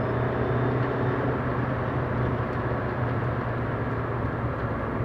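Alfa Romeo 159 1.9 JTDm four-cylinder turbodiesel running steadily, with a faint high whistle that fades out within the first second or so. The owner is unsure whether the whistle comes from the turbo or from something else.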